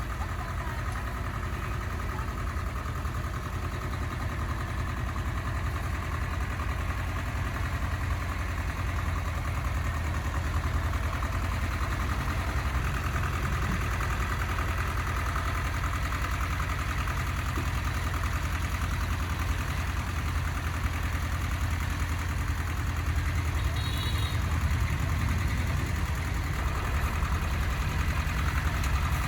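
A motor or engine running steadily with a low rumble and a fast even pulse, getting a little louder about a third of the way in.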